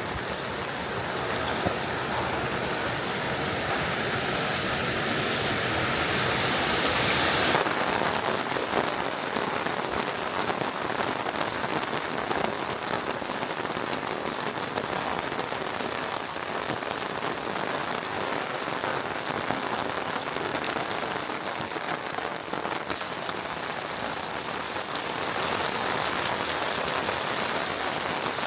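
Steady rain falling and spattering on surfaces, a dense hiss of drops with a change in its sound about seven seconds in.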